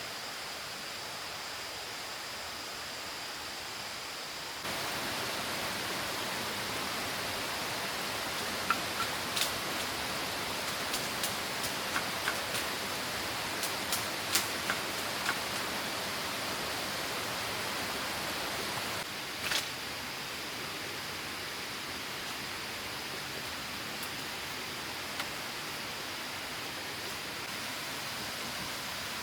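Steady rushing noise of falling water, a little louder from about five seconds in until about nineteen seconds in, with a scatter of short sharp clicks in the middle.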